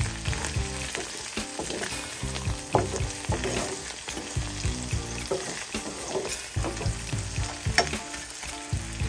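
Shrimp sizzling as they fry in oil in a pan, while a wooden spatula stirs them with repeated short scrapes and knocks against the pan.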